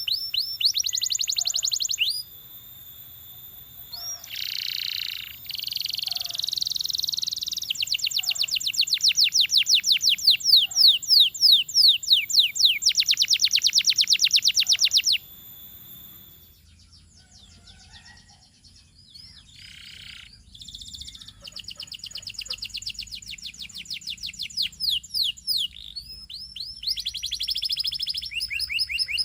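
Domestic canary singing: long, fast trills of rapidly repeated high notes, with a quieter stretch of scattered notes about halfway through before the trills resume.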